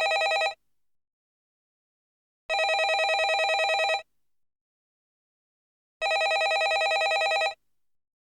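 Landline telephone ringing: a rapid trilling ring about a second and a half long, repeating every three and a half seconds with silence in between. One ring ends just after the start, and two more follow.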